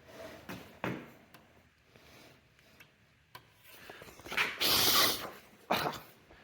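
Table saw rip fence being handled and slid along its rail: a few light knocks, then a scraping slide lasting just under a second and a short clunk about a second later.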